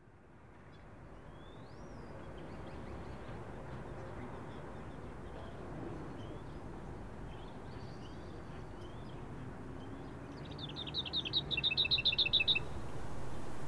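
Birds chirping over a low steady rumble of outdoor ambience that fades in from silence. Near the end a bird gives a fast run of sharp repeated chirps, about eight a second for two seconds.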